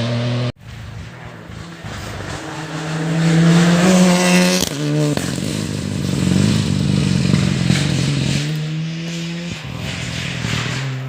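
Rally car engines at full throttle. A steady engine note cuts off abruptly about half a second in. Another car then comes in, getting louder to a peak a few seconds later, with a sharp change of engine pitch near the middle, and carries on running hard to the end.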